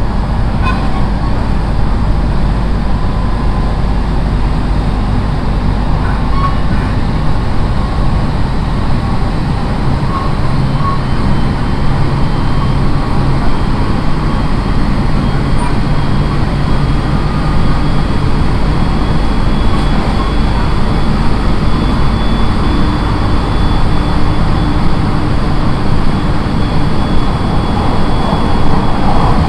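Running noise inside the car of a JR East 701 series electric train: a steady rumble of wheels on rails, with a faint steady whine in the later part.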